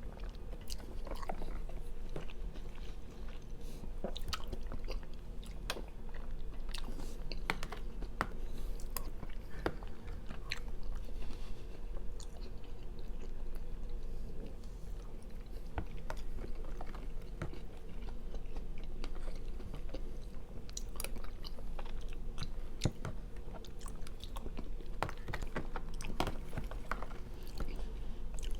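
Chewing and mouth sounds of someone eating white chicken chili, with many small irregular clicks over a steady low hum.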